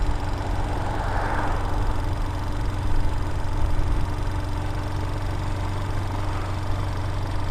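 Air-cooled 250cc Vitacci Raven dirt bike engine running steadily, a low even hum with no change in pitch.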